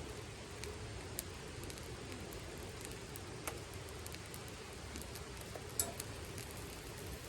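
Wood campfire crackling: a steady low hiss with scattered sharp pops, the loudest about six seconds in.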